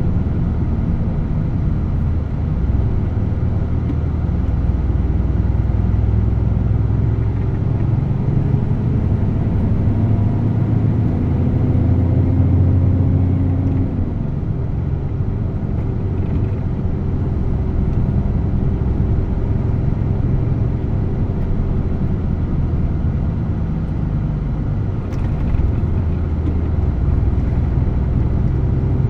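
DAF truck's diesel engine running under way with a steady low drone. About a third of the way in its pitch climbs steadily for several seconds as it pulls, then drops back. A brief click comes near the end.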